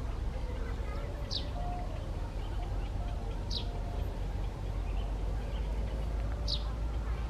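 Pipit giving three short, high, thin chirps a couple of seconds apart, each one falling slightly in pitch, over a steady low rumble.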